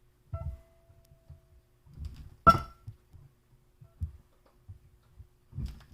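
A loaf of handmade soap being cut: soft low thuds of the blade going through the soap, and one sharp click with a brief metallic ring about two and a half seconds in as the blade meets the cutting surface.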